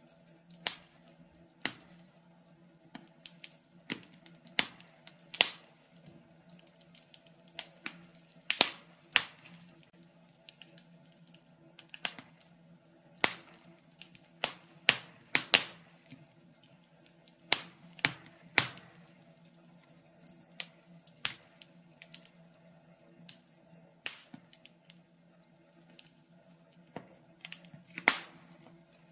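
Wood fire in a fireplace crackling, with irregular sharp pops and snaps, one to a few a second, some much louder than others.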